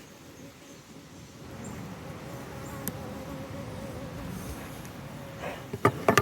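Honey bees buzzing around an open hive, a steady, slightly wavering hum. A sharp click about three seconds in and a few sharp knocks near the end.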